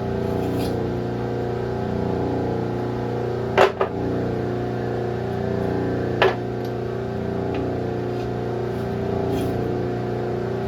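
Steady mechanical hum of hydraulic rim-bending tooling pressing into an aluminium wheel rim. Two sharp clicks stand out, a double one about a third of the way in and a single one a few seconds later, from the rim and tooling under load.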